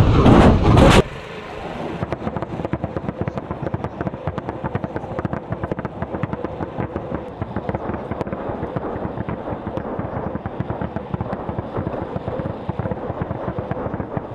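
Tornado-G multiple rocket launcher firing a salvo of 122 mm rockets, several launches in quick succession about 0.4 s apart. About a second in they stop, and a lower, steady crackling rumble follows.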